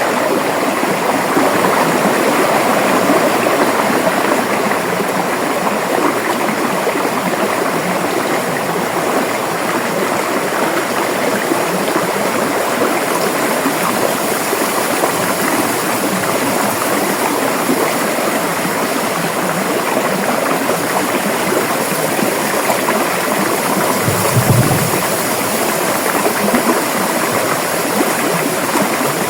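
River water flowing steadily, a continuous rushing noise. A brief low thump near the end.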